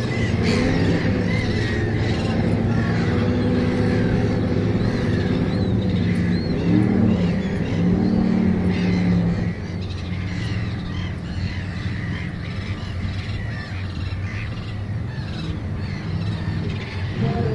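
Two drag-race cars' small-block V8 engines idling at the start line, a steady run that drops a little in level about halfway through.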